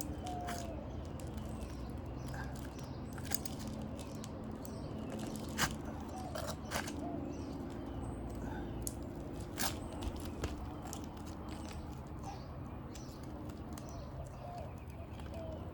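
Scattered sharp clicks and taps of a tool being worked under an asphalt shingle to break its seal, over a steady low background noise.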